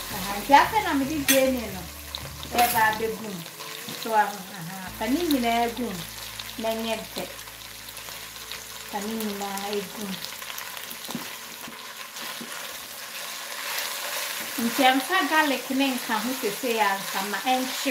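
Lamb pieces and sliced onions sizzling and frying in an enamelled cast-iron pot while being stirred with a silicone spatula. A person's voice comes and goes over it.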